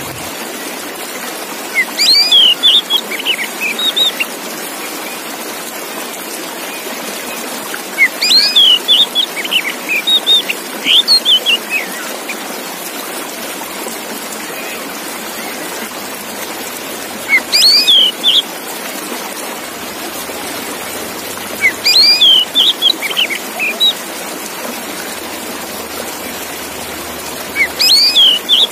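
A male Oriental magpie-robin (kacer) singing, five separate phrases of quick, sliding whistled notes a few seconds apart, over a steady hiss.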